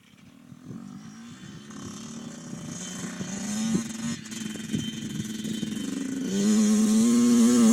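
A dirt bike engine approaching and growing steadily louder, its note holding a fairly even pitch, loudest near the end.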